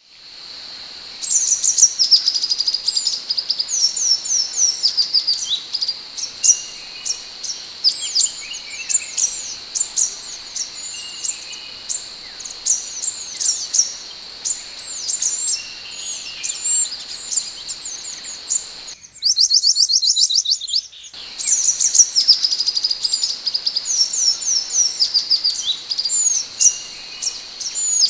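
Scarlet minivet singing: a rapid, continuous series of high, thin, sliding chirps over a steady high-pitched hum. Near the middle comes a brief run of faster repeated notes.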